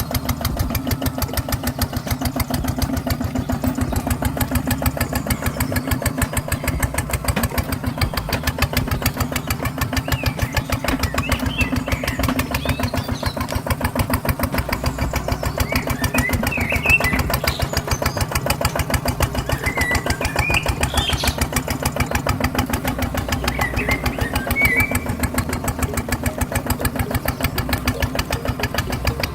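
Small engine of a mini RC tractor running steadily with a fast, even putter, its speed hardly changing. A few brief high chirps come and go over it.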